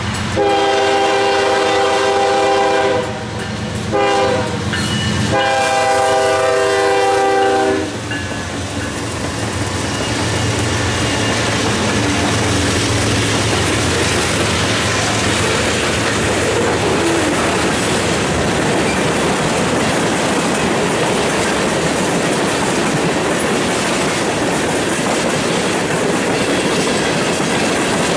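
Diesel freight locomotive sounding its air horn for a grade crossing: a long blast, a short one and another long one. The locomotives then run past, and the freight cars roll by on the rails.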